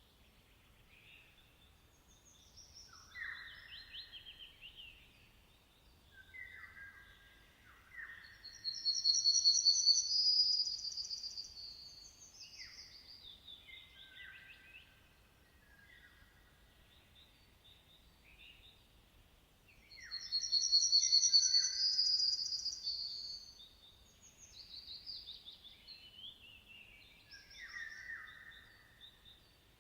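Several songbirds singing and chirping in short phrases of varied whistles and trills. Two loud, high, rapid phrases stand out, about a third of the way in and again about two-thirds through.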